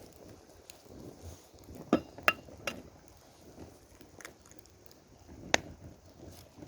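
Utensils clinking against cookware: three quick clinks about two seconds in and one more later.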